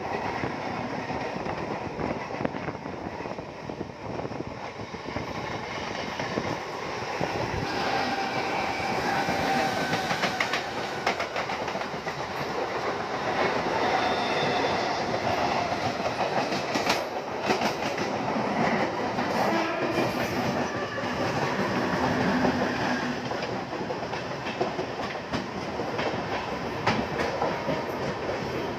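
A train running along the track, a steady rumble with scattered sharp clacks from the wheels and faint whining tones in the middle.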